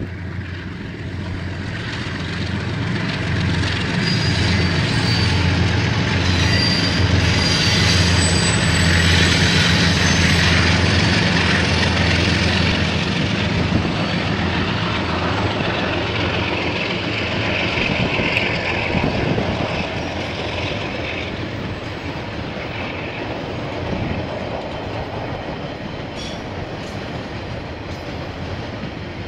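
A KiwiRail diesel train passing close by: the locomotive's engine drone builds up and is loudest in the first half. The wagons' wheels then keep rolling and clattering, with thin wheel squeals, the sound slowly fading toward the end.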